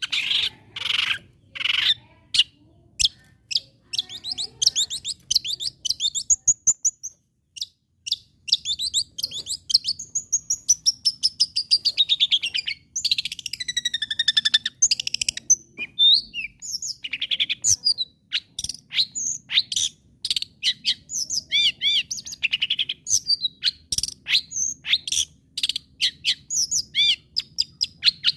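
Long-tailed shrike (cendet) in full, vigorous song: a fast, varied stream of sharp chirps, clicks, harsh buzzy notes and whistled glides, with a short pause about seven seconds in.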